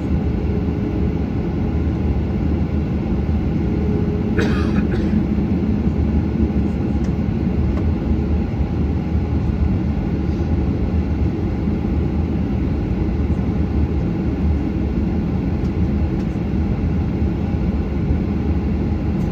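Steady engine and airflow noise heard inside the cabin of a Boeing 737, with a brief rustle-like noise about four and a half seconds in.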